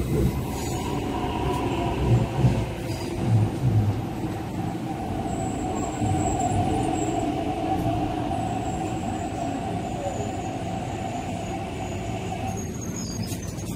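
MTR East Rail Line R-train, an electric multiple unit, braking into the platform and coming to a stop. Its wheels knock in pairs over the rail joints in the first few seconds. A steady whine from the drive and brakes runs under the rumble and cuts off about thirteen seconds in as the train halts.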